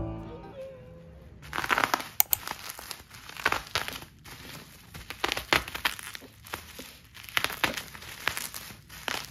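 Packaging crinkling and rustling as it is handled, in irregular crackly bursts starting about a second and a half in.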